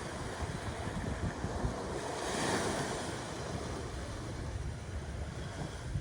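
Ocean waves breaking on a shore, one wave washing in with a hiss that peaks about two and a half seconds in, over a low gusty rumble of wind on the microphone.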